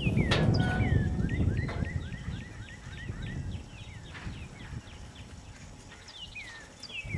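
A songbird singing a long series of short down-slurred whistles, with a quicker run of lower whistles a second or two in. Low knocks and rustling from the steel bucking chute are loudest in the first two seconds.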